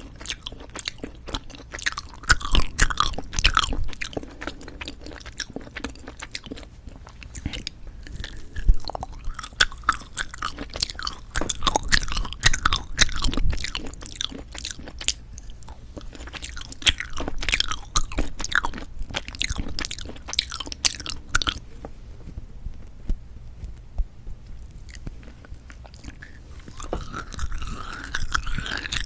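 Close-miked chewing and biting of novelty jelly candies: irregular, dense mouth sounds, with a quieter pause about three-quarters of the way through before the chewing picks up again.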